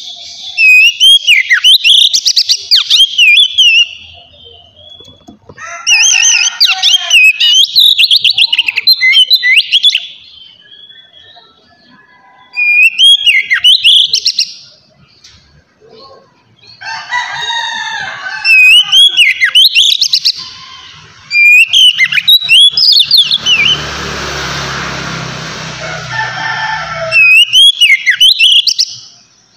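Oriental magpie-robin (kacer) singing loudly in about six bouts of fast, rich whistled and warbled phrases, with short pauses between them. A rough rustling noise sounds under the song for about three seconds near the end.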